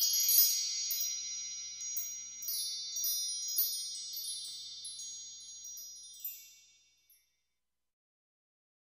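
Bright chimes: a cascade of high, tinkling struck notes, struck again several times, ringing on and fading out about seven seconds in.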